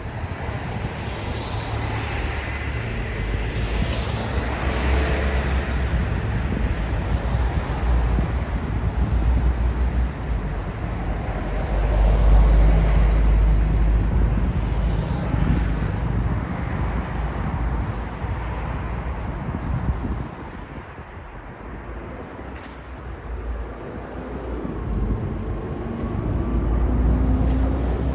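City street traffic: vehicles passing close by with a low rumble that swells and fades, loudest about halfway through and again near the end, with a brief lull between.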